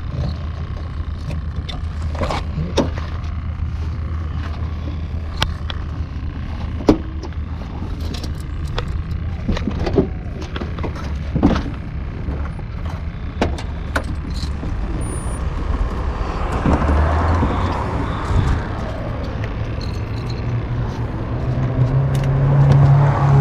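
A car engine idling with a steady low hum, louder and slightly higher near the end. Scattered knocks, clicks and clatter come from gear being loaded into the hatchback and a plastic cooler lid being handled.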